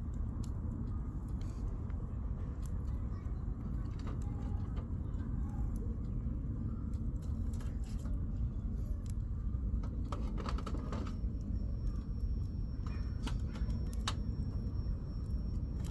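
Wood campfire crackling, with scattered sharp pops and snaps, over a steady low rumble. A faint, thin, high steady tone comes in about two-thirds of the way through.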